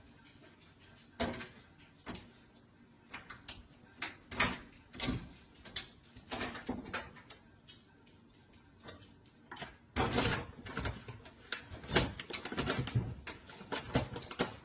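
A series of irregular knocks and clatters, spaced out at first and coming thicker from about ten seconds in.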